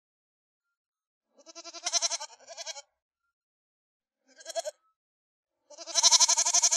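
An animal bleating: three quavering calls, the first at about a second and a half and broken in two, a short one in the middle, and the longest and loudest near the end.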